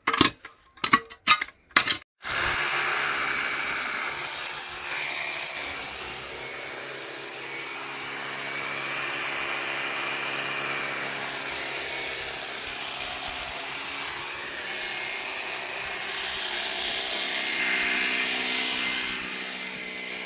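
SDS rotary hammer drill with a long 22 mm masonry bit boring into hard stone. A few sharp knocks come first, then the drill runs steadily for about eighteen seconds.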